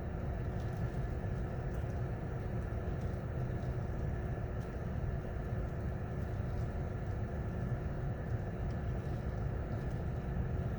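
Gale-force wind, over 60 mph, buffeting a parked car, heard from inside the cabin as a steady low rumble with a faint constant hum.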